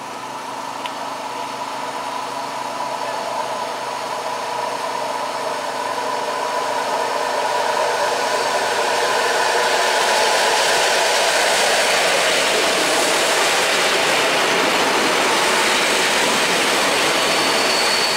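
EN57 electric multiple unit arriving, its running noise and a steady whine growing louder as it nears and passes close by. Near the end a thin high brake squeal sets in as the train brakes to a stop at the end of its run.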